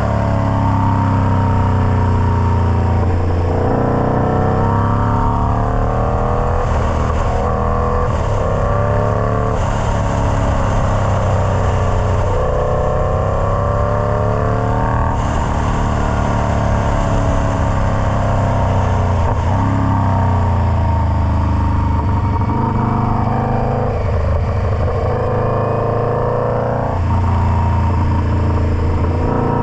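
Indian Scout Bobber's V-twin engine running loud through a Freedom Performance Combat 2-into-1 exhaust, its pitch falling and rising again every few seconds as the engine speed changes.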